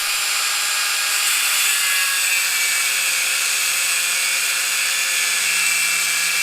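Angle grinder cutting through a rusted, seized nut and bolt at an exhaust-to-catalytic-converter joint: a loud, steady, high-pitched grinding that runs unbroken.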